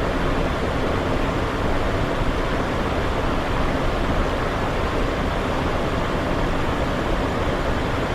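Steady cockpit noise of a Cessna Citation XLS business jet climbing: an even rush of airflow over the airframe blended with its twin turbofan engines.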